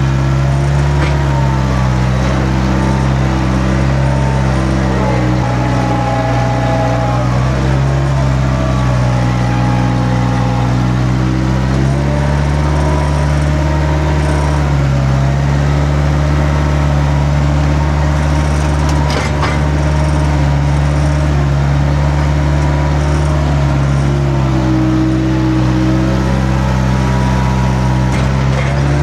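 A heavy engine running steadily at a constant speed, its pitch shifting slightly a couple of times.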